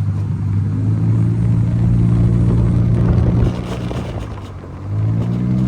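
A motor running with a steady low hum. It fades away about three and a half seconds in and comes back about five seconds in.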